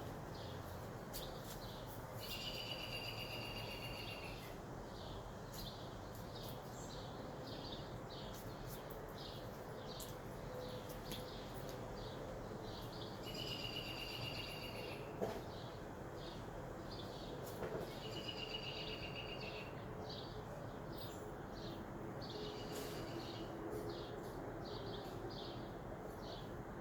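Birds chirping over steady outdoor background noise, with several trills about two seconds long among many short chirps.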